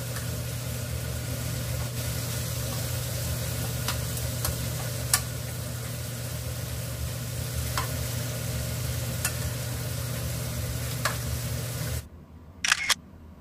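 Butter-fried abalone pieces and onion sizzling in a frying pan over a steady low hum, with sharp clicks now and then as tongs turn the pieces against the pan. The sizzling stops abruptly near the end, leaving a couple of clicks.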